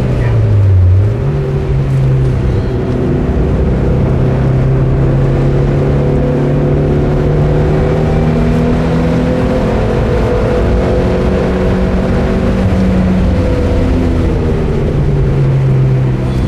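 Mitsubishi Lancer Evolution IX MR FQ-360's turbocharged 2.0-litre four-cylinder engine, heard inside the car's cabin, running hard at a steady speed with road and wind noise. The engine note drops briefly about a second in, then climbs back and holds nearly steady.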